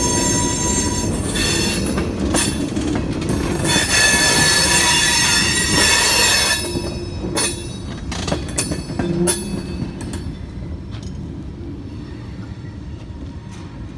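Train rolling past with its steel wheels squealing on the rail, a loud high whine of several tones that cuts off about seven seconds in. After that come fainter rolling noise and scattered clanks and clicks, fading as the train moves away.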